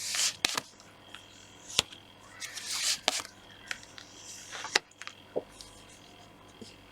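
Tarot cards being handled and drawn: soft rustling swishes of cards sliding, with four sharp snaps or taps as cards are pulled and laid down.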